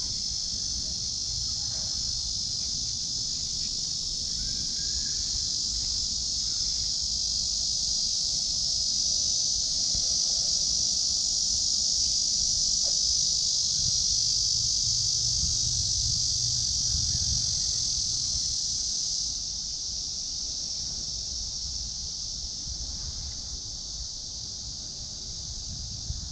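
A steady, high-pitched chorus of insects droning without a break, over a low rumble. About three-quarters of the way through it eases a little and loses its highest edge.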